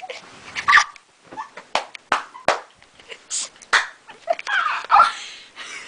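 Scattered short breaths, stifled laughs and rustling knocks from people straining to hold a partner balancing pose.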